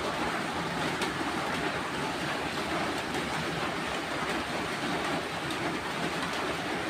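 Steady heavy rain, an even hiss with faint scattered taps.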